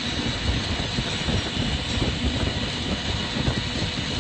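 Steady rushing roar of glassworking torches and the hot shop's ventilation fans running, even and unbroken.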